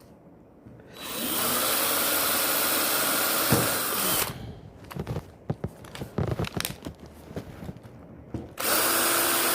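Electric hand drill running, spinning up about a second in and stopping after about three seconds, then irregular knocks and clatter before the drill starts again near the end. The drill bit is dull.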